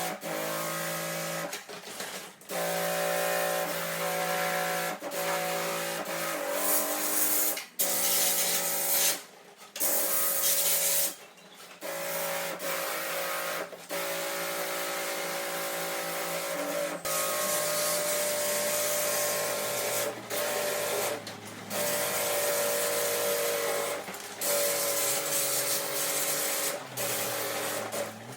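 Small electric pump of a pressure sprayer running, with a hiss of spray, stopping and starting many times as the trigger is released and pulled. Its whine drops in pitch about two-thirds of the way through.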